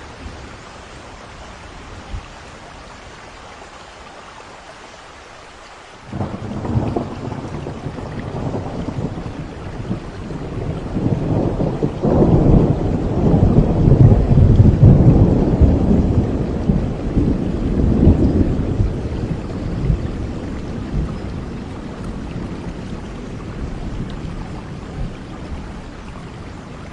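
Steady rain falling, with a long roll of thunder that breaks in suddenly about six seconds in, swells to its loudest midway and slowly rumbles away toward the end.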